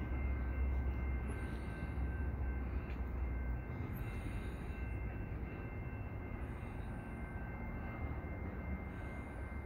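Commuter train of an ALP45DP locomotive and Bombardier multilevel coaches rolling slowly past, a steady rumble with a thin high whine. The deep low rumble drops away about a third of the way in, and the whole sound slowly gets quieter.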